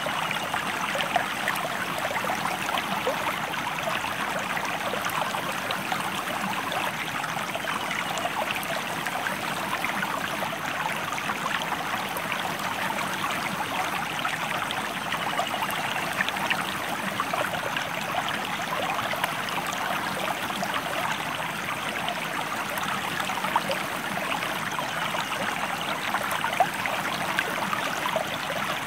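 Stream water running steadily, a continuous rush of flowing water dotted with many small splashes and trickles.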